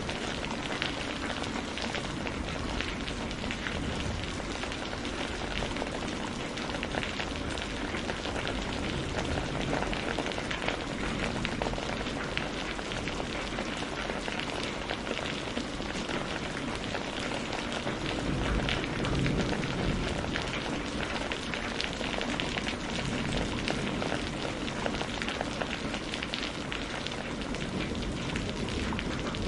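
Steady rain, a dense patter of drops falling on a surface.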